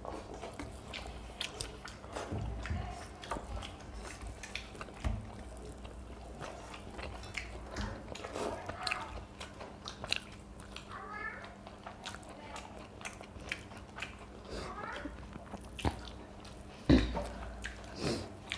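Two people chewing and eating by hand from steel plates: wet mouth smacks and small clicks, with a louder knock near the end.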